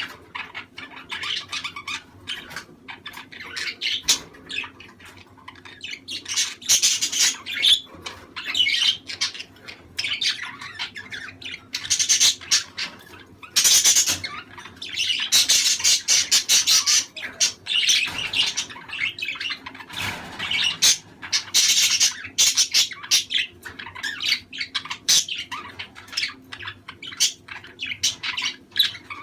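A flock of budgerigars chattering and squawking together in quick, unbroken bursts, with sharp loud calls over a constant warble. This is the breeding-colony chatter that budgie keepers play to pairs to stimulate mating.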